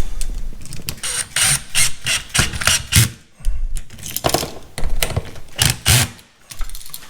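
Irregular clicks, scrapes and knocks of a wall switch being forced into its electrical box and screwed down by hand. The wires are stiff and push back against it.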